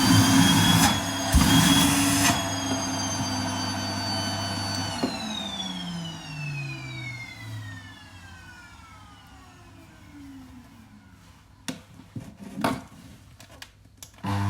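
Vacuum cleaner running, its suction rushing louder twice in the first two seconds. About five seconds in it is switched off and the motor winds down with a falling whine. After a few clicks of handling, it starts up again with a rising whine right at the end.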